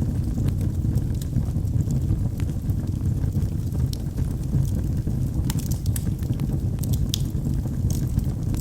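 Log fire burning with a steady low roar of flames and scattered sharp crackles and pops from the burning wood, several bunched together past the middle.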